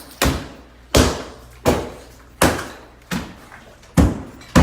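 Hammer blows in a renovation: seven sharp strikes at a steady pace of about one every 0.7 seconds, each ringing out briefly in an empty room.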